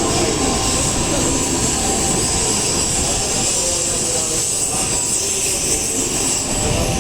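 N700S Shinkansen train running past the platform as it leaves the station: a steady rush of running noise with a high, even whine on top.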